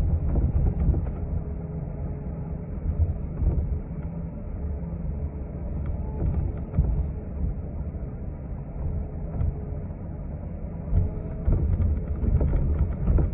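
Steady low rumble of a city transit bus's engine and tyres heard from inside the moving bus, with scattered small knocks and rattles.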